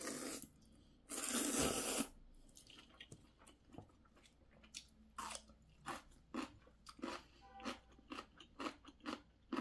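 Ramen noodles slurped in two noisy pulls near the start, the second about a second long. Then crunchy close-up chewing of whole ponytail-radish (altari) kimchi, about two crunches a second.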